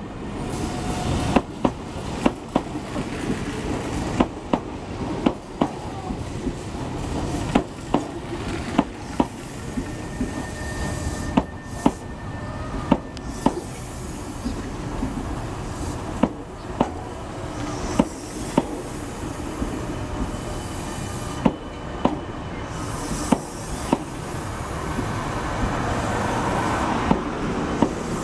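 Meitetsu 1200 series Panorama Super electric train rolling slowly past as it arrives. Its wheels click over the rail joints, often in quick pairs as each bogie crosses, over a steady running rumble. Faint wheel squeal comes and goes.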